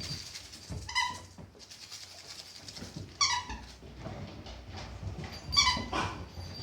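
Squeaky dog toy squeaked three times, about two seconds apart, each squeak short and high, while Boxer puppies chew it, with low scuffling underneath.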